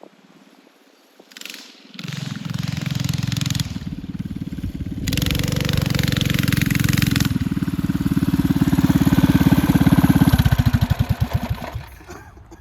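Mini bike's Predator 212 single-cylinder four-stroke engine coming up under throttle, getting louder to a peak. It then eases off, its firing beats slowing and fading as the bike slows down at the end of a lap.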